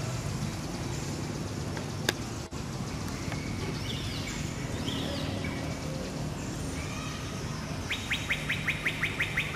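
Wild birds calling over a steady low background hum: a few short rising-and-falling chirps around the middle, then a fast trill of sharp notes, about seven a second, near the end. A single sharp click about two seconds in.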